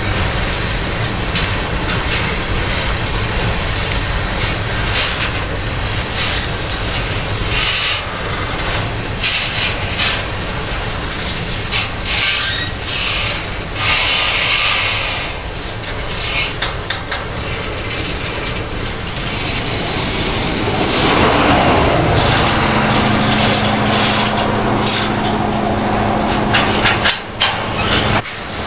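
Slow-moving freight train of covered hopper cars rolling past, wheels clicking over the rail joints with a low rumble. A steady low hum comes in about three-quarters of the way through.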